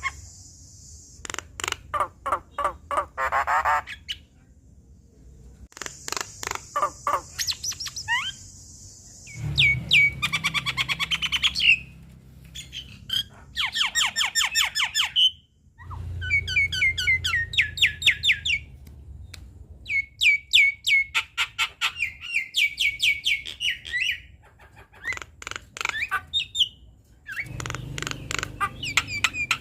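Javan myna chattering in bursts of rapid harsh, clicking notes, each burst a few seconds long with short pauses between, some with a raspy hiss.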